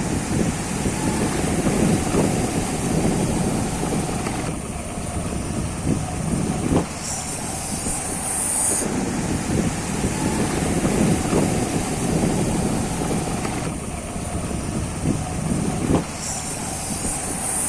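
Motorbike riding on a rough off-road track: steady engine and wind noise on the microphone, with a couple of sharp knocks from bumps.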